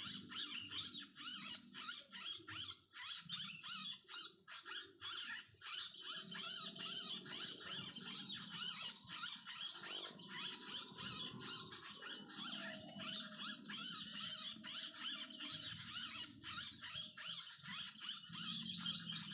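Dense, continuous high chirping and chattering of many small birds, the kind of call used as a lure when trapping birds.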